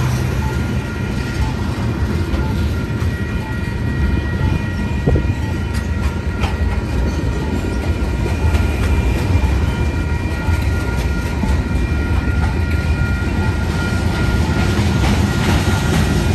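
Freight cars of a Union Pacific manifest train, tank cars and covered hoppers, rolling past: a steady low rumble of wheels on rail with clickety-clack over the joints. A few thin, steady high-pitched tones ring on top throughout.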